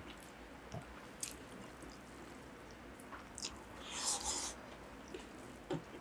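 Close-miked chewing and wet mouth clicks of people eating rice and curry by hand, faint and irregular, with a brief louder smack about four seconds in.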